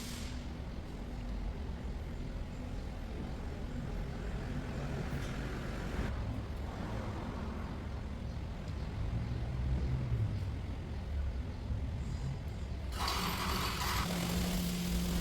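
Steady low mechanical rumble, with a hiss joining about thirteen seconds in.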